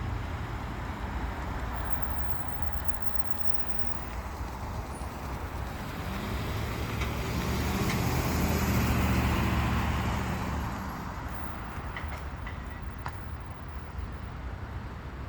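Steady outdoor road-traffic noise, with one passing vehicle whose sound swells to a peak about nine seconds in and then fades away.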